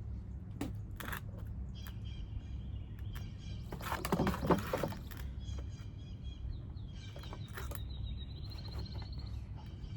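Birds chirping, including a high trill lasting a few seconds from about the middle, over a steady low hum, with scattered small clicks and taps of hand work.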